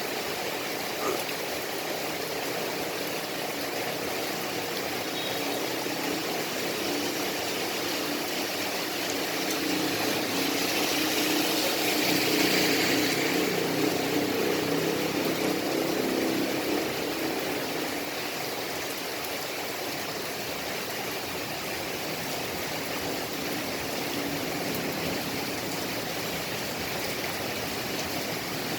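Steady rain falling at night, a constant hiss with trickling water. About a third of the way in, a louder swell of noise builds over several seconds and fades again.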